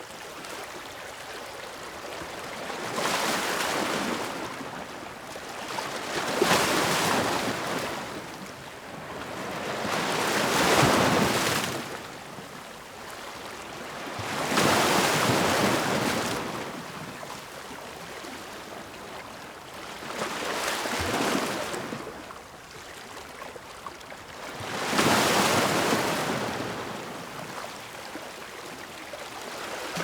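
Ocean waves breaking on the shore: six surges of surf, about every four to five seconds, each building and washing out, over a quieter steady wash between them.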